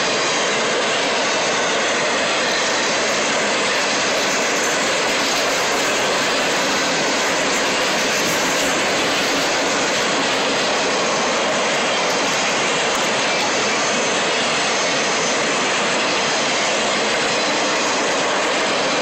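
Steel wheels of a train of empty flatcars rolling past on the rails, making a steady, even rushing noise with no distinct wheel clicks.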